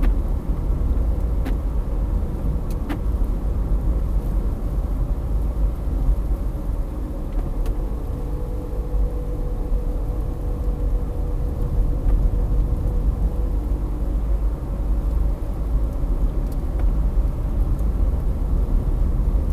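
Car driving, heard from inside the cabin: a steady low road-and-engine rumble with a couple of faint clicks in the first few seconds.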